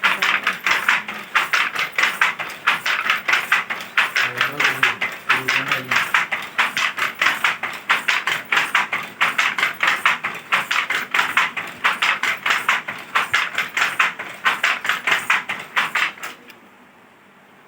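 Handloom weaving: the loom clacks in a fast, even rhythm as the shuttle and beater work. It stops near the end.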